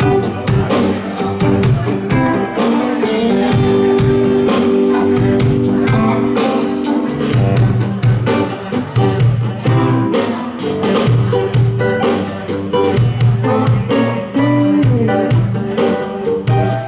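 Live band playing a guitar-led instrumental passage: electric guitars over bass and drums with a steady beat.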